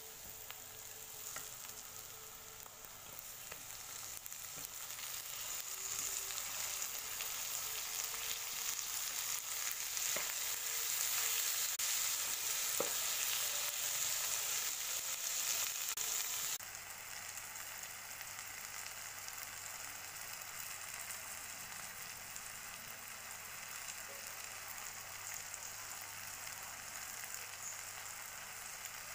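Onions and tomatoes frying in hot oil in a pan, a steady sizzle stirred with a metal spoon, with a few faint clicks. The sizzle grows louder over the first dozen seconds, then drops suddenly to a quieter level about two-thirds of the way through.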